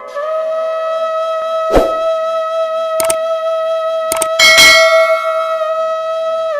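Bansuri bamboo flute holding one long, steady note. Several sharp clicks or knocks cut across it, about two and three seconds in, with a short cluster just after four seconds.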